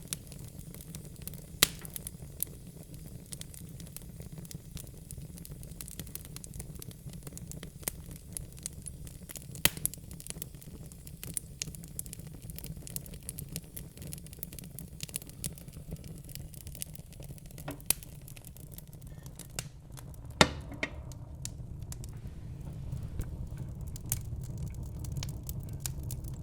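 Wood logs burning in a fireplace: scattered sharp crackles and pops over a low, steady rumble, with the loudest pop about twenty seconds in.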